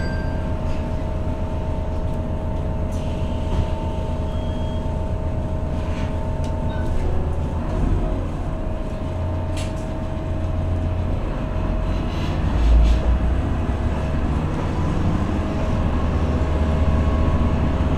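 Interior of a KiHa E130 diesel railcar: a steady low rumble of the train with a constant hum above it, and a brief louder low surge about two-thirds of the way in.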